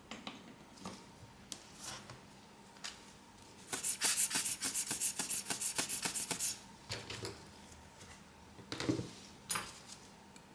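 Small repair tools working on a phone: light taps and clicks, then, about four seconds in, roughly three seconds of quick back-and-forth scraping strokes, about six a second, followed by a few more taps.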